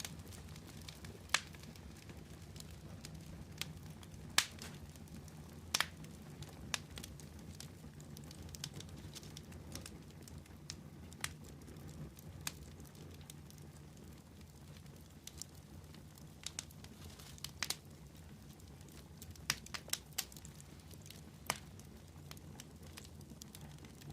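Fire crackling: irregular sharp pops and snaps, a dozen or so of them with the loudest a few seconds in, over a steady low rumble of burning.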